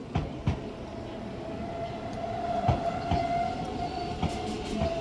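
Northern Class 331 electric multiple unit pulling into the platform, with a steady whine that grows louder and a few sharp knocks as the wheels pass over rail joints.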